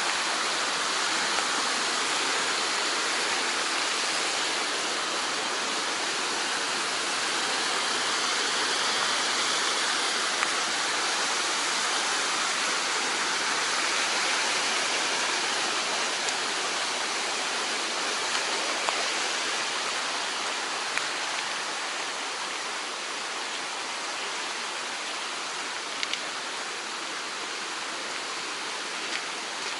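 Mountain stream rushing steadily, swollen just after rain, with a few small clicks over it. The water grows a little quieter in the last third.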